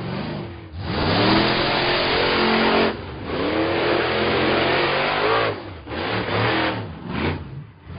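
A cartoon car engine sound effect, revving in several surges that rise and fall in pitch, with brief drops in between.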